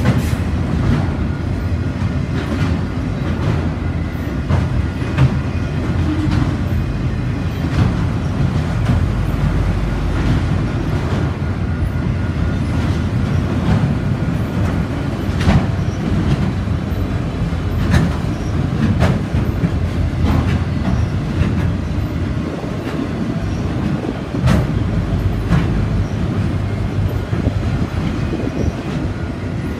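Freight train of autorack cars rolling past: a steady low rumble of wheels on rail, with sharp clacks at uneven intervals as the wheels cross rail joints.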